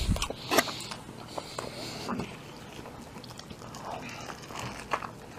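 Close-up eating sounds: a walleye fish sandwich being chewed, with scattered clicks and soft rustles from handling it. The sharpest click comes about half a second in.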